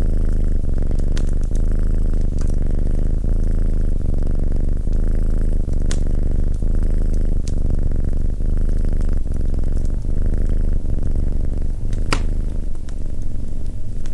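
A domestic cat purring loudly and continuously, the purr changing with each breath every second or two. Sharp crackles and pops from a wood fire are scattered through it, with one louder pop near the end.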